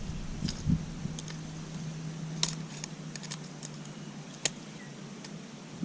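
A few scattered light clicks and ticks over a quiet background, with a faint steady low hum through the first half.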